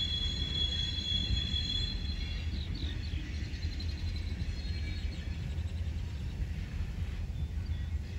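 Freight train rolling past with a steady low rumble of cars on the rails, and high, thin wheel squeal that fades out about three seconds in.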